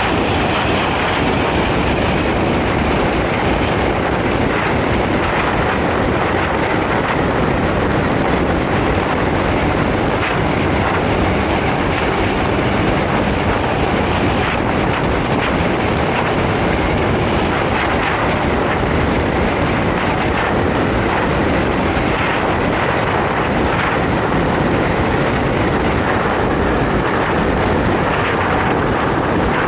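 Motorcycle riding at steady speed: wind buffeting the microphone over engine and road noise.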